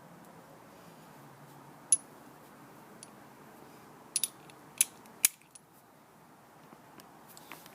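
Hand tools clinking: a few sharp metallic clicks as a socket, extension bars and wrench are handled and fitted together, about 2 s in, twice around 4 s and twice around 5 s, with faint ticks near the end.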